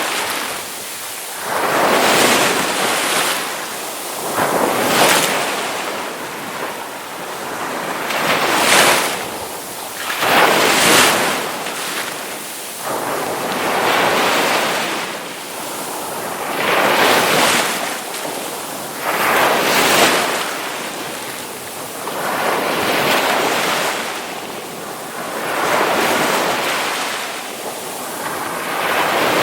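Ocean waves crashing on a shore, the surf swelling and falling back every few seconds.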